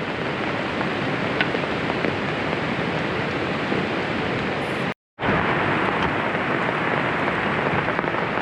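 Heavy rain falling steadily, an even hiss of downpour. The sound cuts out abruptly for a moment about five seconds in, then carries on as before.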